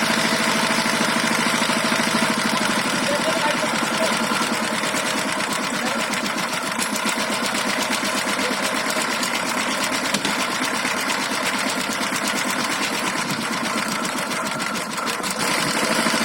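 Power tiller's single-cylinder diesel engine running with a rapid, steady chugging.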